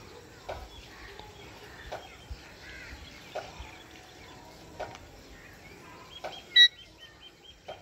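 Birds chirping over a faint steady background, with a soft click repeating about every second and a half. Near the end a bird gives one loud, sharp call inside a quick run of short, high chirps.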